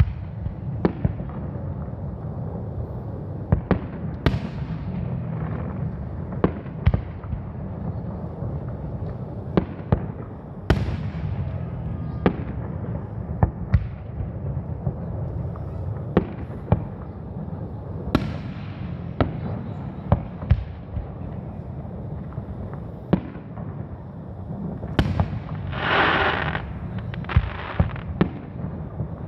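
Aerial fireworks shells bursting in an irregular series of sharp bangs, some trailing off in a hiss, over a steady low rumble. A longer hissing burst comes near the end.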